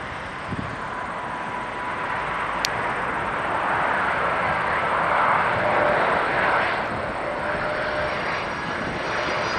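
Jet noise from an Airbus A330's Rolls-Royce engines as the airliner comes in on approach. It is a rushing sound with faint whining tones, swelling from about two seconds in to its loudest around the middle, then easing slightly.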